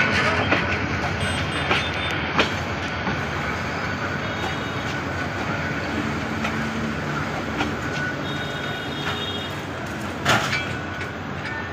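Passenger train rolling along the track, a steady rumble of wheels with scattered sharp clicks, and one louder clank about ten seconds in.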